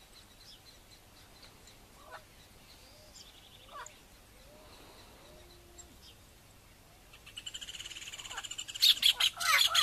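Faint whistled bird calls that sweep up and down in pitch. From about seven seconds in, a fast pulsing chatter starts up and grows loud near the end.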